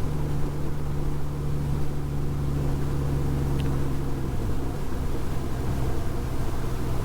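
2006 Honda Gold Wing GL1800's flat-six engine running at a steady cruise, a low, even hum with road and wind noise on top.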